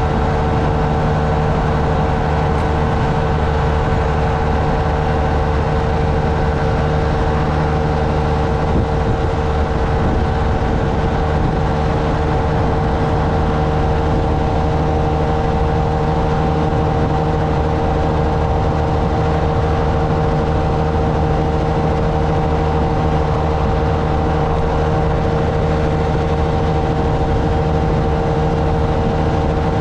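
Honda Navi's small single-cylinder engine running steadily during a ride, its pitch holding level as if cruising at a constant speed, over a steady rush of wind and road noise.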